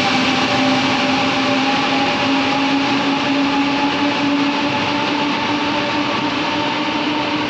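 Taiwan Railway train running at the platform, a steady rumbling rush with a constant hum of several held tones over it.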